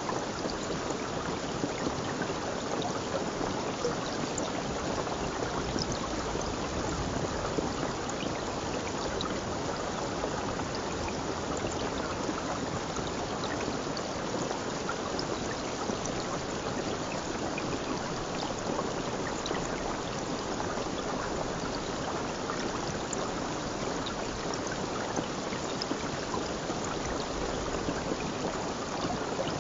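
Stream water flowing steadily, a continuous rushing with scattered small splashes and drips.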